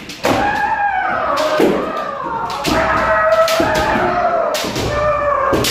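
Kendo sparring: long, drawn-out kiai shouts from the fencers, with several sharp cracks of shinai strikes and stamping feet on a wooden floor. The sound echoes around a large hall.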